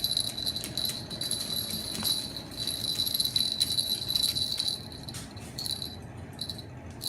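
A small jingle-bell toy jingling as a Moluccan cockatoo shakes it: a steady high ringing with many light ticks, breaking up near the end.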